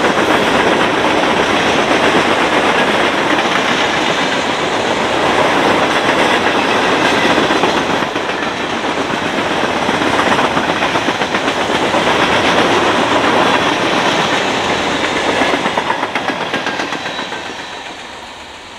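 Loaded coke hopper cars of a freight train rolling past, a steady noise of steel wheels on rail. It fades over the last few seconds as the end of the train goes by.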